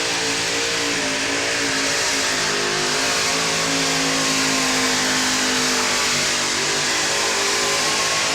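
Modified pulling tractor's engine running flat out under load down the track, a loud, steady engine note holding nearly the same pitch, with a strong hiss over it.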